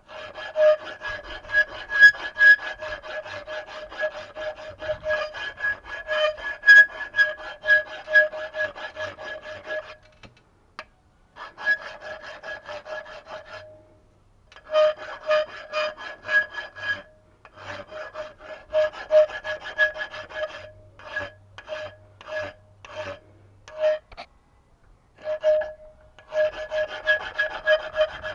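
A hand tool scraping back and forth on metal, with the workpiece ringing at a steady pitch under every stroke: continuous for about ten seconds, then in shorter spells and single strokes with pauses between them.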